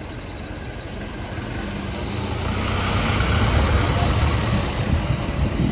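A motor vehicle passing close by on the street: engine rumble and tyre hiss swell to a peak about three to four seconds in, then begin to fade.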